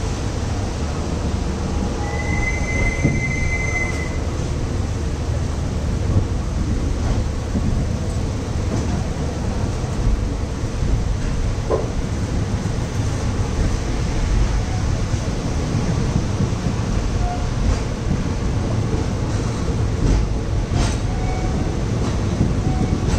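Passenger train running slowly, a steady low rumble heard at an open coach door. A brief high squeal comes about two seconds in.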